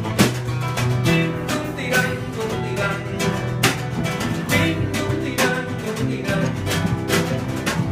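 Live band music: plucked guitar over steady bass notes, with sharp percussion strikes coming every half second or so.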